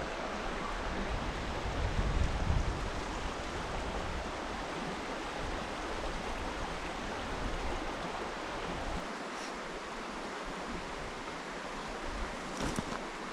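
Steady rushing of a flowing river, with wind buffeting the microphone about two seconds in and a light knock near the end.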